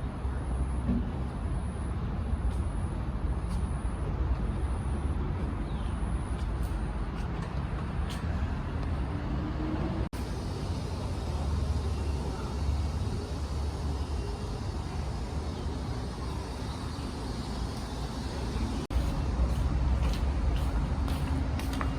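Steady low rumble of heavy vehicle engines and road traffic, broken by two very short cuts, about ten seconds in and near the end.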